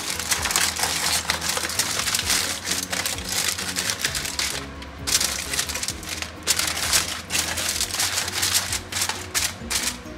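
Aluminium foil crinkling and crackling as it is folded and crimped by hand around a tray, with a brief pause about halfway through. Background music plays underneath.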